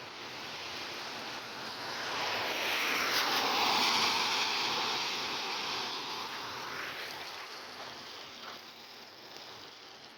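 A vehicle passing on a wet road: tyre hiss swells to a peak about four seconds in and fades away by about seven seconds, over a steady background of falling rain.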